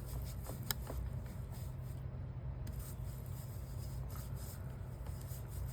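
Foam ink blending tool rubbing Distress Oxide ink onto a paper index card: a soft, steady scrubbing with a few light clicks, over a steady low hum.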